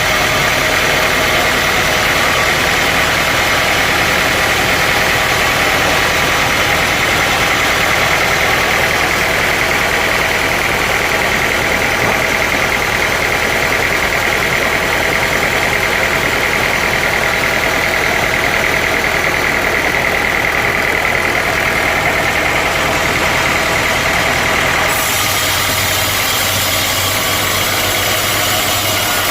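Sawmill machinery running steadily: a loud mechanical drone with a steady high-pitched whine. The sound changes abruptly near the end.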